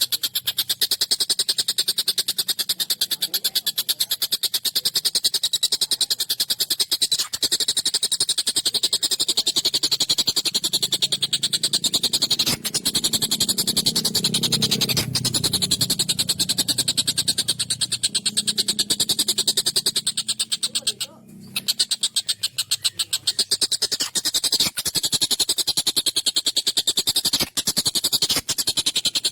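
Tengkek buto, a kingfisher, giving a continuous, fast, harsh rattling chatter of rapidly repeated notes. It breaks off briefly about 21 seconds in.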